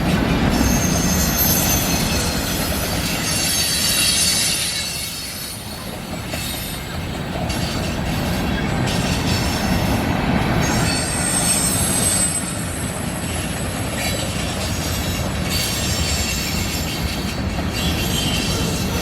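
Freight cars of a manifest train rolling past, with a steady rumble and rail clatter. Thin, high-pitched wheel squeal comes and goes several times.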